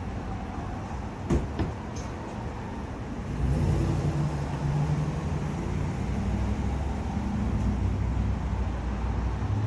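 A motor vehicle engine running, getting louder about a third of the way in and then holding steady, with a couple of sharp clicks shortly before.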